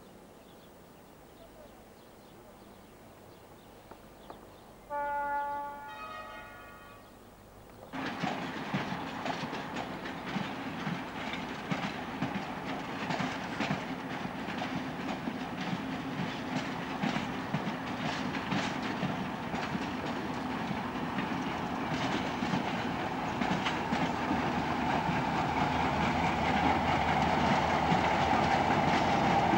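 A train horn sounds once for about two seconds around five seconds in. From about eight seconds a passenger train rolls past, wheels clattering over the rail joints, getting louder toward the end.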